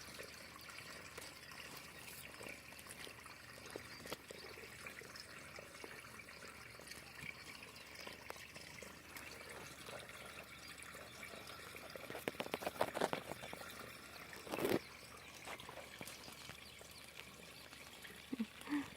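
Water trickling steadily into a pond. About twelve seconds in comes a quick run of clicks, and a little later one louder short sound.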